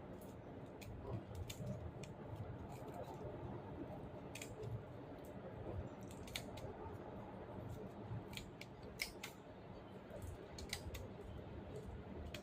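A dozen or so short, sharp clicks at irregular intervals over a low steady rumble.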